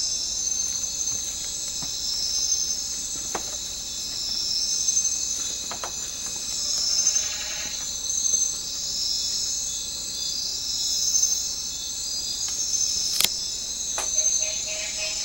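Dense, shrill insect chorus, continuous and swelling and fading about every two seconds, with a few sharp clicks. A brief lower call comes about halfway through, and a rapid pulsing lower call starts near the end.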